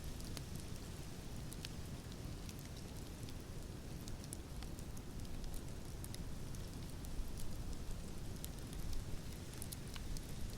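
Fireplace fire crackling: scattered sharp pops and snaps over a steady low rumble and hiss.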